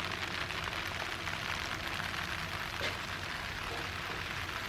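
Steady background hiss with a faint low hum underneath and no distinct event, apart from one faint tick about three seconds in.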